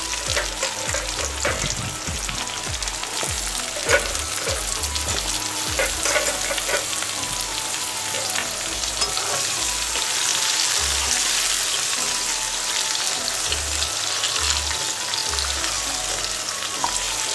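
Chopped onion, tomato and potato pieces sizzling in hot oil in a metal kadai, stirred with a metal spatula that clicks and scrapes against the pan now and then, with one sharper knock about four seconds in.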